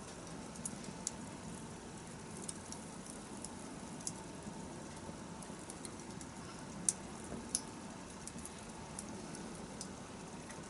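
Wood campfire burning: a steady low rush of flame with irregular sharp crackles and pops, two louder pops a little past the middle.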